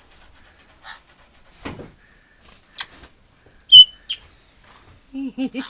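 Caique parrot making scattered short chirps and clicks; the loudest is a sharp, high chirp about two thirds of the way in. A brief low warbling sound comes just before the end.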